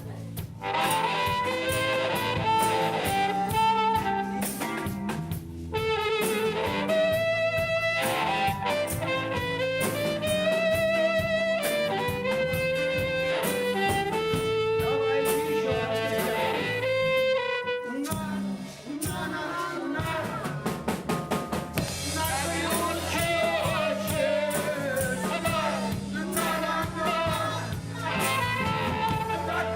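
Live rock band playing a song: drum kit and bass under a wavering lead melody line.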